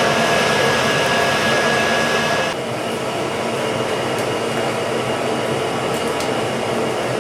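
Coal forge's electric air blower running steadily: a loud rushing hum with a thin steady whine. About two and a half seconds in, the whine shifts higher and the sound gets a little quieter.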